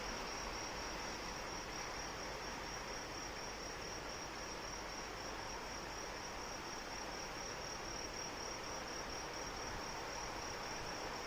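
Steady rain falling, with crickets trilling continuously at one high pitch.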